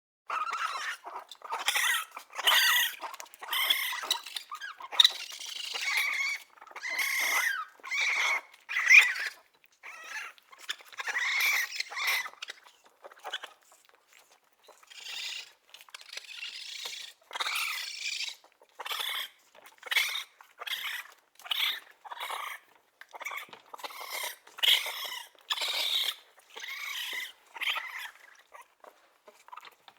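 Baby raccoon calling: a run of short, high chitters and squeals, some bending in pitch, with brief pauses between them and a quieter spell about halfway through.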